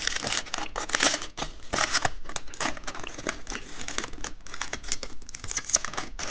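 Plastic candy packaging crinkling and tearing in quick, irregular crackles as it is opened by hand.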